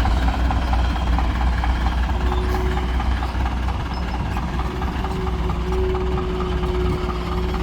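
Heavy diesel engine running steadily, with a thin steady whine joining in about two seconds in.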